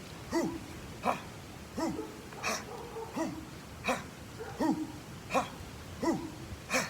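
A dog barking steadily, one short bark about every 0.7 seconds, about ten barks in all.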